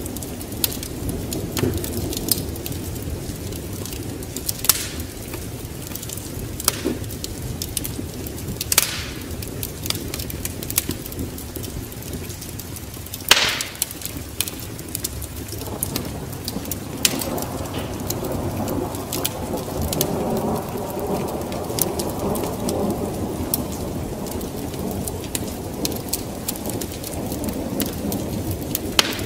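Fireplace wood fire crackling, with scattered sharp pops, over steady rain; a low rumble of thunder swells up about halfway through.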